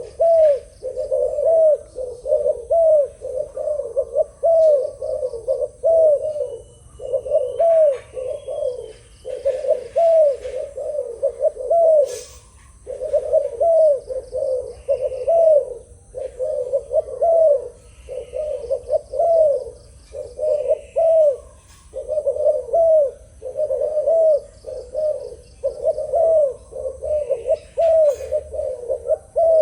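Spotted dove cooing: a long run of short, low coos, two to three a second, in phrases broken by brief pauses.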